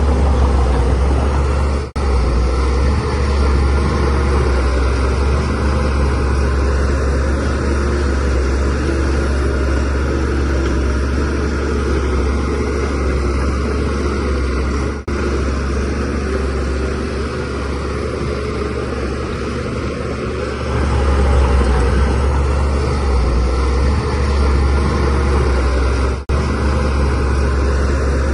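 DH17C3 bulldozer's diesel engine running steadily under load, growing louder about two-thirds of the way through, with three brief dips in the sound.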